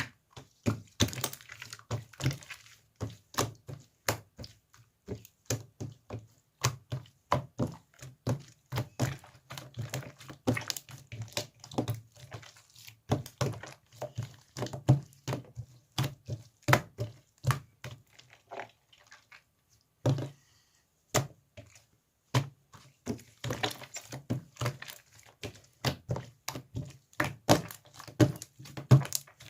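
Slime being squished, pressed and poked by hand, giving a rapid, irregular run of sticky clicks and pops, with a brief lull about two-thirds of the way through.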